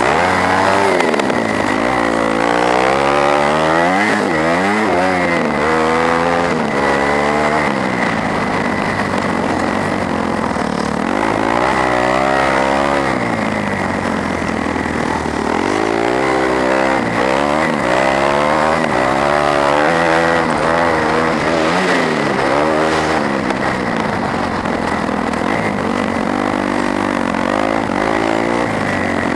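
Onboard sound of a 250cc four-stroke motocross bike's engine revving up and down over and over as it is ridden around the track, its pitch climbing and falling every second or two. A steady high whine runs underneath.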